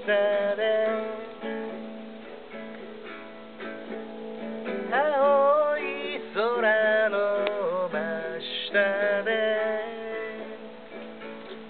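Yamaha guitalele tuned to regular guitar tuning, strummed and picked through an instrumental passage of a song, with some notes wavering and bending.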